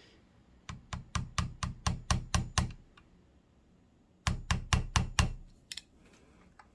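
A hammer tapping lightly to seat a part in a sewing machine's mechanism: a run of about nine quick taps, a pause, then about six more.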